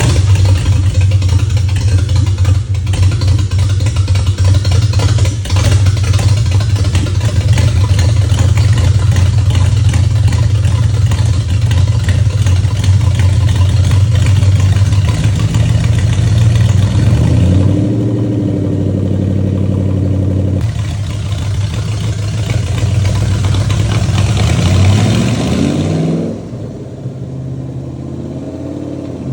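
Straight-piped Lexus LS400 1UZ-FE V8 running loud and steady at a fast idle just after a cold start. About two-thirds of the way in it is revved up slowly twice, the pitch rising and then falling back suddenly, and it settles to a lower, quieter idle near the end.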